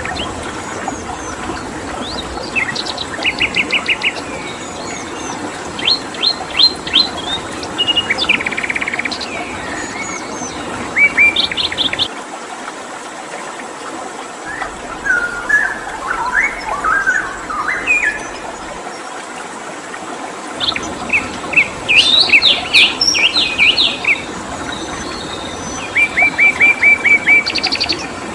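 Songbirds calling in bursts of quick, evenly repeated chirps and short trills, over a steady background hiss of rushing water or insects.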